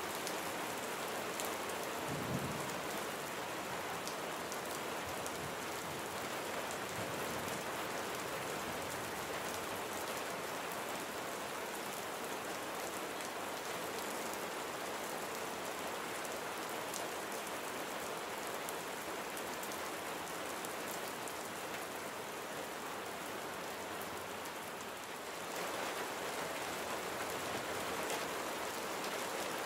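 Steady rain falling and pattering on surfaces as an even, dense hiss, with a brief low thump about two seconds in. The rain gets a little louder about 25 seconds in.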